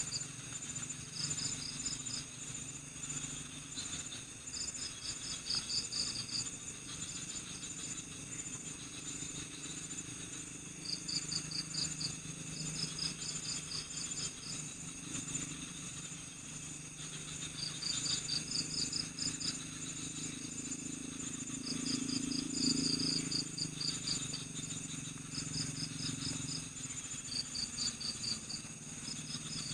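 Night chorus of crickets: short, rapidly pulsed chirps recur every few seconds over a steady high-pitched insect drone, with a low hum underneath.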